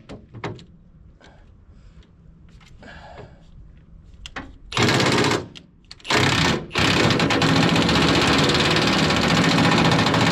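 Light clicks and tool handling, then an impact wrench fired in two short bursts and then hammering steadily for about five seconds on a rusted-up bolt.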